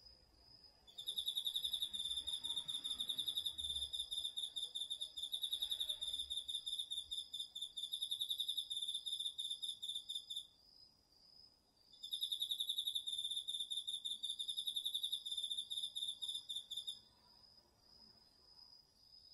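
Autumn crickets singing: one sings in long, rapidly pulsing high trills, breaking off about ten seconds in and starting again a second and a half later until about seventeen seconds in, over another insect's steady, slightly higher continuous trill.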